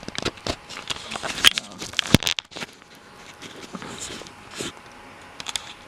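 Irregular sharp clicks and crackling handling noises, dense and loud through the first two and a half seconds, then sparser and quieter.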